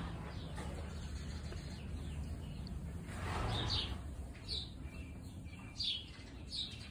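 Small birds chirping: a handful of short, high chirps spaced through the second half, over a low steady hum.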